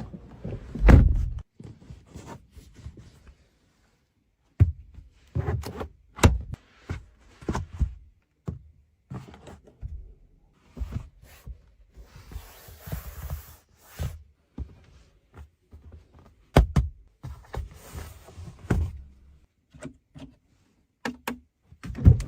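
A car's doors, panels and controls being handled: a string of irregular clicks and thunks, with a steady hiss lasting about two seconds around the middle and a shorter one a few seconds later.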